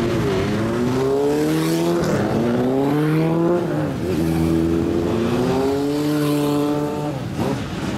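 Straight-piped engine of a lowered old Japanese car revving again and again: about four rises in pitch, each held a second or so and then dropped back to idle.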